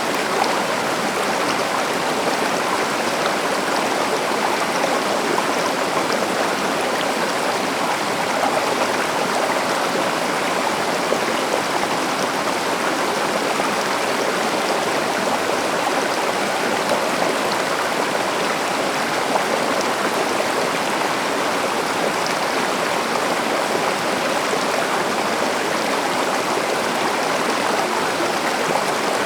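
A river or stream running steadily over rocks, a continuous rush of flowing water.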